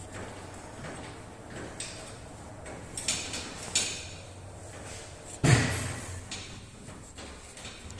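A handful of separate knocks and clanks, the loudest about five and a half seconds in, like hard objects being handled and set down in a workshop.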